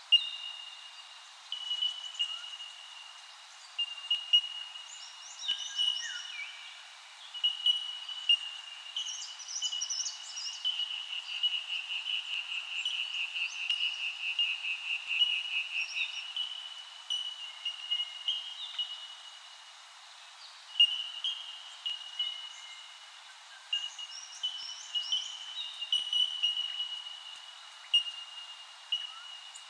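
Birds calling: many short chirps and quick trills over a steady high-pitched chorus that swells and pulses for several seconds midway.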